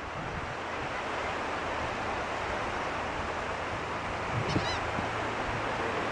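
A gull gives a brief call of a few quick squawks about four and a half seconds in, over a steady rush of wind and surf.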